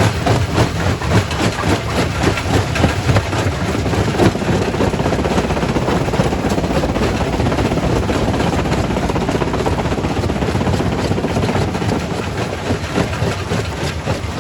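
Quarry primary rock crusher running with a loud, continuous rumble of rock being crushed. Clattering knocks are thick in the first few seconds, it runs steadier in the middle, and the knocks pick up again near the end.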